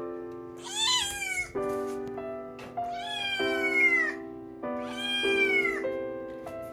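Munchkin cat meowing three times, each drawn-out call sliding down in pitch at its end, over background music.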